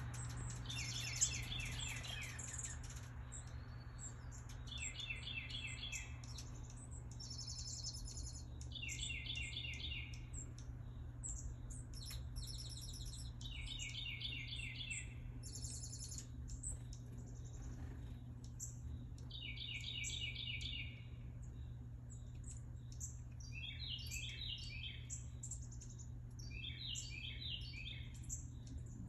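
Backyard birdsong: a bird repeats a short, rapid trilled phrase about two seconds long, every four seconds or so. Near the end a different, choppier run of chirps takes over. A low steady hum runs underneath, and a single sharp tap sounds about a second in.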